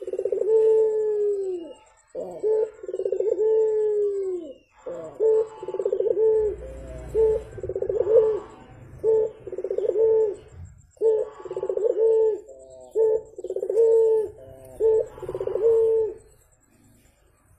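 Puter (Barbary dove) cooing repeatedly in a quick, rhythmic series of low coos, many bending down in pitch at their ends; the cooing stops near the end.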